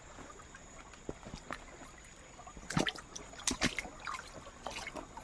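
Small river trickling and flowing, with a few sharp splashes about three seconds in.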